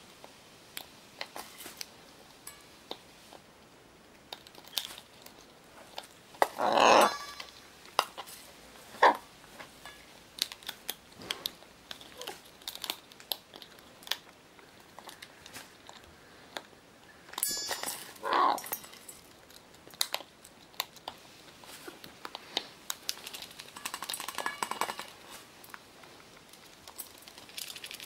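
Scarlet macaw giving two short, harsh calls, about seven and eighteen seconds in, amid scattered small clicks and crinkling.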